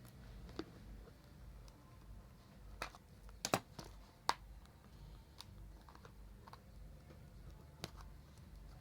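Scattered light clicks and taps of fingers working at a new phone's cardboard box, trying to get it open.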